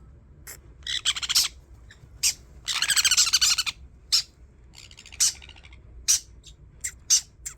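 Parrot calling: a string of short, high chirps and two longer, harsh, rasping screeches, the louder one about three seconds in.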